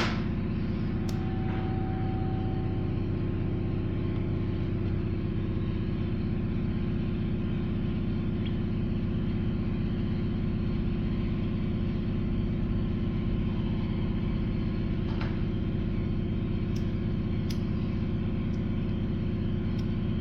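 A steady low mechanical hum from a running motor, unchanging throughout, with a few faint light ticks.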